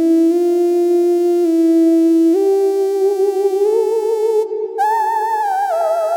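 Cherry Audio Ensoniq ESQ-1 software synthesizer playing a sustained, bright lead line that slides from note to note, with a wavering vibrato on the held notes from about halfway through. A second, higher voice joins about five seconds in.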